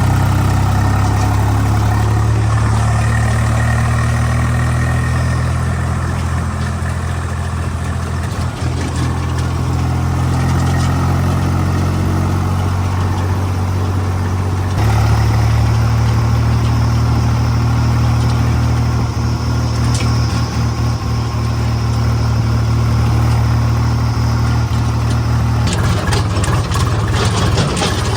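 Tractor diesel engine running steadily with a deep, even hum. About two thirds of the way through the sound shifts, and near the end the steady hum thins into a rougher rattling sound with many short clicks.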